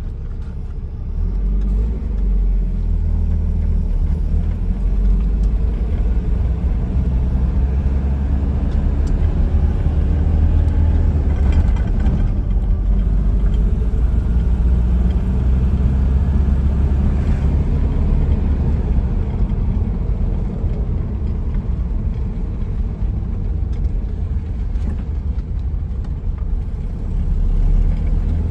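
1985 Nissan 720 pickup's engine running with a steady low rumble, getting louder about a second in.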